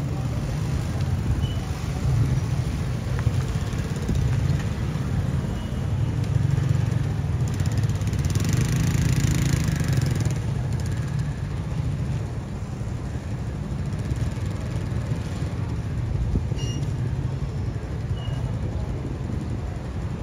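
Express passenger train passing close by: a steady low rumble of the train running on the track, with a brighter, louder rush for about two seconds near the middle.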